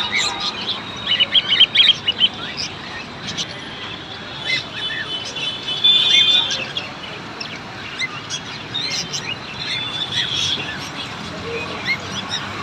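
Birds chirping in many short high calls, with a quick run of notes between one and two seconds in and brief twittering trills around six and ten seconds.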